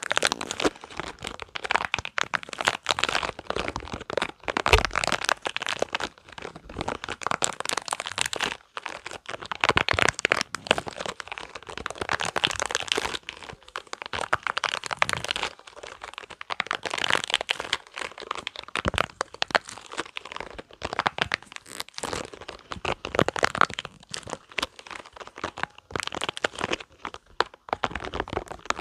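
Spiky rubber balls squeezed and rubbed close to the microphone, making a dense crackling in bursts of a second or two with short pauses between.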